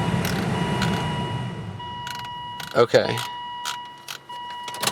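Volvo S80's electric radiator cooling fans running with the car off and no key in, an electrical fault; their whoosh dies away over the first couple of seconds. A steady high electronic tone sounds in long pulses with short gaps, with scattered sharp clicks.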